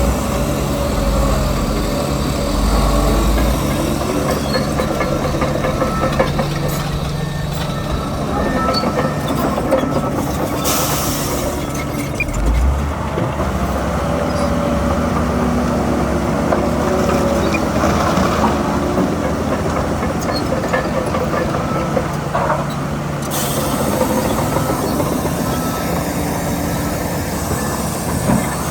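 Heavy earthmoving machinery at work: a diesel engine running steadily, with metallic squeals and clanks over it. Two short bursts of hiss come about eleven and twenty-three seconds in.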